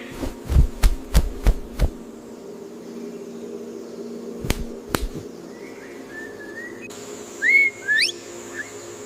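A quick run of about seven sharp snaps in the first two seconds and two more near the middle, then a bird's whistled calls: short slurred whistles, and near the end two loud ones that sweep steeply upward.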